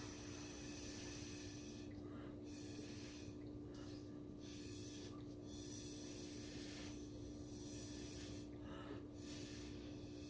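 Faint breathy puffs of air blown through a drinking straw onto wet acrylic pour paint, coming in stretches broken by short pauses for breath, over a steady low electrical hum.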